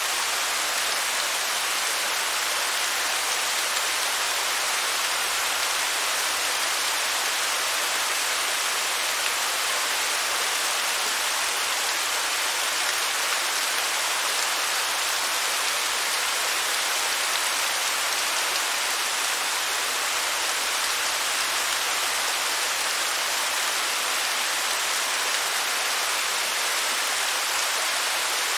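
Waterfall: a steady, unbroken rush of falling water, mostly a high hiss with little deep rumble.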